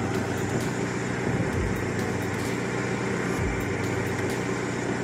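BMW E36 1.6i four-cylinder engine idling steadily under electrical load, with the low beams and heater fan switched on so that the alternator's charging can be tested after a new voltage regulator was fitted.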